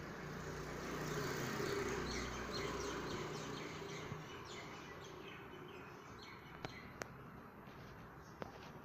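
A bird chirping in short, repeated high notes, two or three a second, over a low rumbling background noise that swells about a second in and slowly fades. A few sharp clicks near the end.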